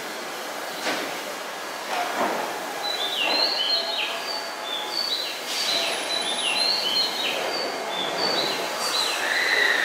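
Repeated short, high chirps, each note falling in pitch, about two a second, over steady station platform noise with a couple of knocks early on. Near the end a long tone starts, sliding slowly downward.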